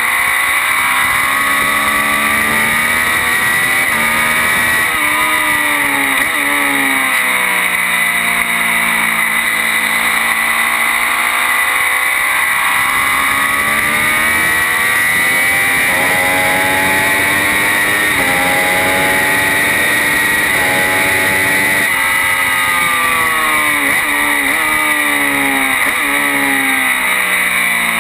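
Triumph Daytona 675's three-cylinder engine at racing speed, revving up through the gears and dropping sharply on downshifts for the corners, again and again. A steady rush of wind and road noise runs underneath.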